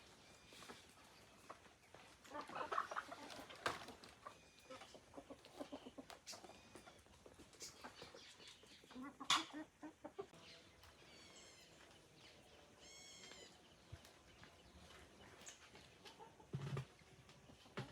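Chickens clucking faintly, with a few higher calls a little past the middle and scattered short knocks and clicks.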